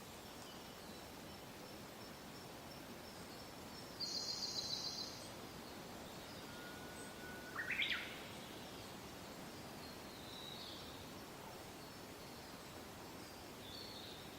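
Soft steady wind with birds calling: a rapid high trill lasting about a second, four seconds in, then a call that holds a tone and sweeps upward about eight seconds in, with fainter calls later.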